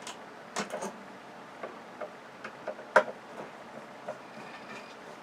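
Scattered small clicks and taps of hand work on a flat-screen LCD TV's parts as it is taken apart, with a sharp, loud click about three seconds in.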